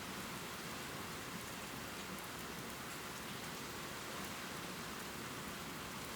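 Steady heavy rain falling, an even hiss with a few faint drip ticks.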